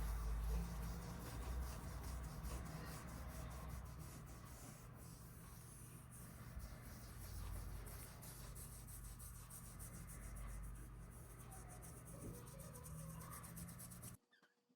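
Applicator rubbing and scratching leather dye over a leather motorcycle seat, with a steady low hum behind it. Both cut off abruptly near the end.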